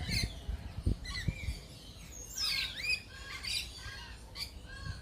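Several birds chirping and calling together in short arched notes, with one louder swooping call about two and a half seconds in. A few low thumps in the first second and a half.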